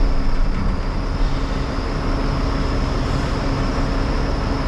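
Roll-off truck's diesel engine running steadily, with its PTO engaged for the hoist.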